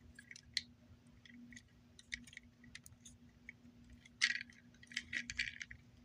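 Faint clicks and light knocks of plastic action-figure parts being handled and snapped together, coming in scattered clusters that are busiest in the second half, over a faint steady hum.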